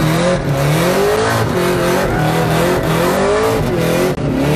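The supercharged V8 of a Holden Commodore ute drift car at high revs, its engine note rising and falling over and over as the rear tyres spin, heard from inside the cabin.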